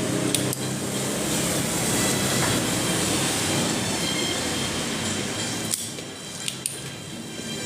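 Hot-air rework gun blowing steadily while an IC is desoldered from an induction cooker's circuit board, a little quieter in the last couple of seconds, with a few sharp clicks near the end.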